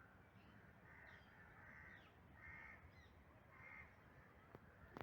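A crow cawing faintly in the distance, four calls about a second apart.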